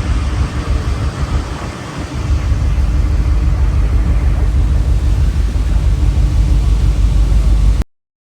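A vehicle running: a steady low rumble with a haze of noise over it, dipping briefly about two seconds in, then cut off suddenly near the end.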